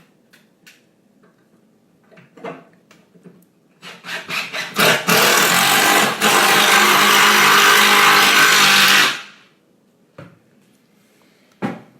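A loud, steady machine-like noise that starts about five seconds in, runs for about four seconds and then dies away, after a few faint clicks and knocks.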